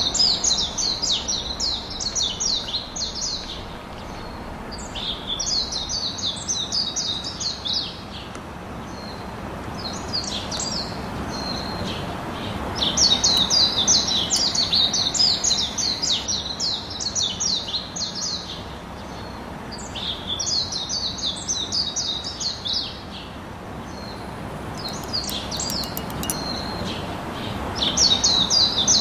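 A small bird chirping in fast trills of short high notes, in bouts of a few seconds with short pauses between them, over a steady low background noise.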